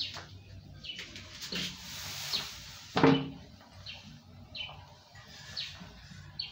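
A small bird chirping over and over in short, high calls, with a sharp knock about three seconds in from the toilet tank's cover and fittings being handled.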